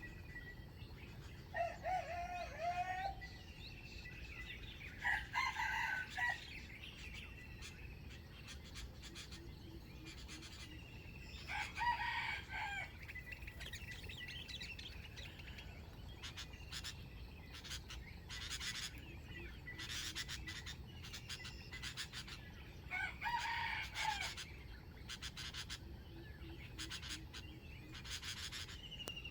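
Junglefowl rooster crowing four times, short crows of about a second each, spread out with long pauses between them. Fainter bird chirps and clicking sounds lie underneath.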